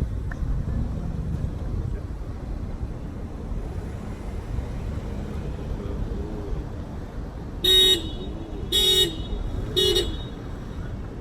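Car horn honking three short blasts about a second apart, over a steady low traffic rumble: drivers honking at each other in anger.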